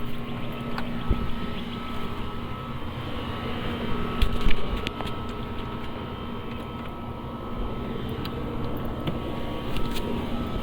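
Steady machine hum with a few knocks, and a louder bout of clattering about four seconds in.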